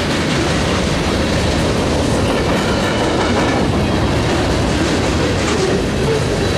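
Freight train cars rolling past: a steady loud rumble and rattle of steel wheels on rail with clickety-clack, and a faint high squeal of wheels around the middle.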